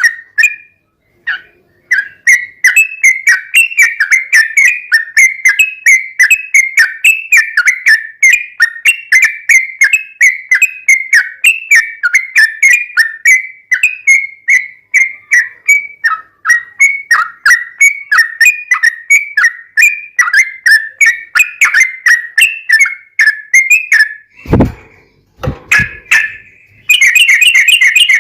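Yellow-vented bulbul (trucuk) singing a long, loud run of rapid whistled notes, about three or four a second, after a brief pause near the start. Near the end come two loud thumps and a short harsh, buzzy rattle.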